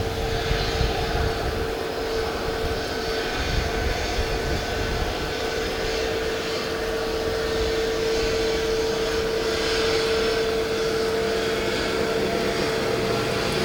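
Aircraft engines running as a plane taxis past close by: a steady whine over a low rumble, growing slightly louder partway through.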